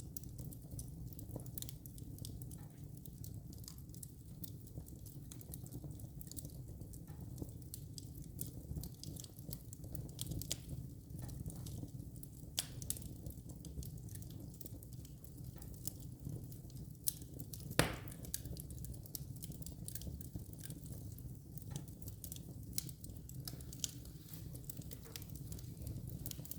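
Wood fire burning in a fireplace, crackling with many small irregular snaps over a steady low rumble, and one louder pop about two thirds of the way through.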